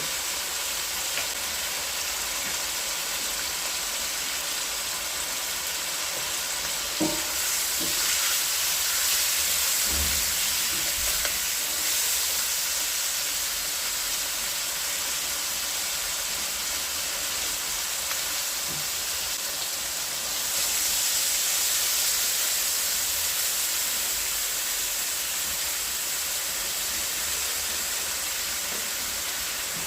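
Food sizzling as it fries in a pan, a steady hiss that swells louder twice, with a couple of light knocks of a utensil against the pan about a third of the way in.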